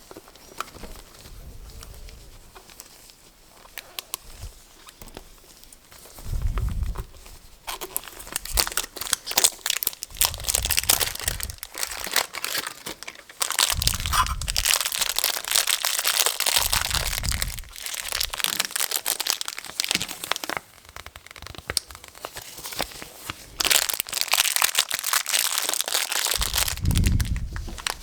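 Packaging crinkling and tearing as a surprise toy pack is opened by hand, in long crackly stretches, with a few dull low bumps from handling.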